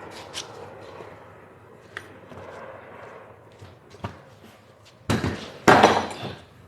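Scattered knocks and clunks of a car's back seat being worked loose, with a loud scraping, rustling stretch of about a second and a half some five seconds in.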